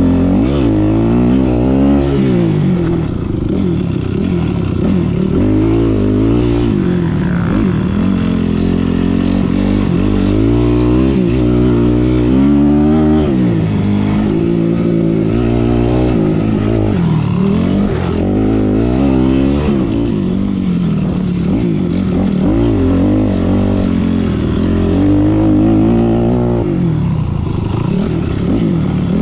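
Motocross dirt bike engine revving hard and backing off again and again, its pitch climbing and dropping every second or two as the bike accelerates, shifts and slows around the track.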